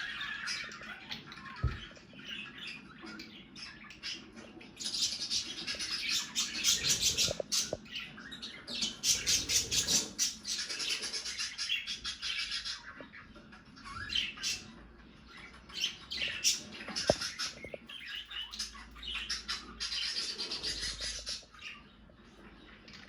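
Budgerigars chattering and squawking in a busy stream of fast high chirps, louder in several stretches.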